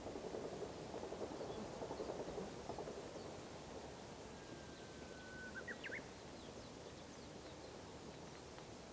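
Faint low rumble that fades after about three seconds. About halfway through, a bird gives one long whistled note, slightly falling, followed by a few quick rising chirps, with faint high chirps after it.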